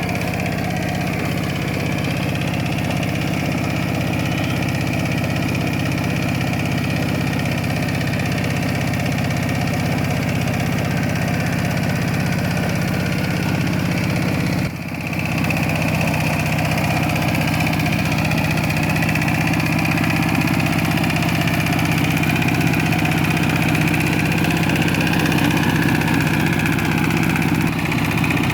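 Kubota K700 tractor engine running steadily at a constant speed, with a brief break about halfway through.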